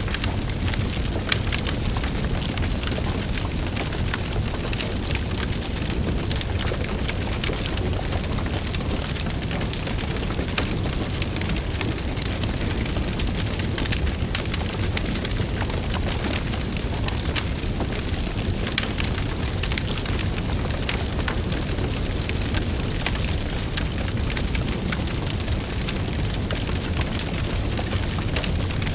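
Wood fire crackling, with frequent sharp pops and snaps over a steady low rumble of flames.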